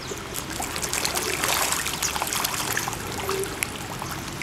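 A dense mass of feeding fish splashing and churning at the pond surface, a steady wet trickling with many small splashes and mouth smacks.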